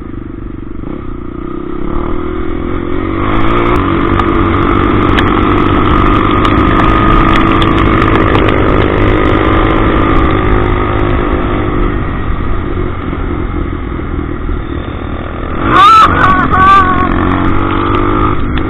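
Motorcycle engine running while riding, the revs building over the first few seconds and then holding steady.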